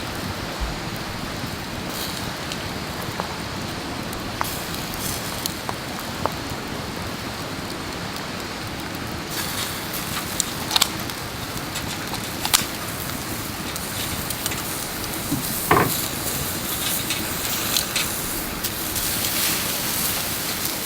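Wood fire burning with a steady hiss and scattered sharp crackles and pops.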